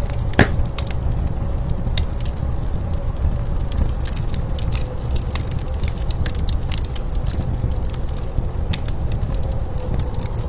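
Wood fire crackling with irregular sharp pops, one louder pop about half a second in, over the steady low rumble and faint wavering whistle of blizzard wind.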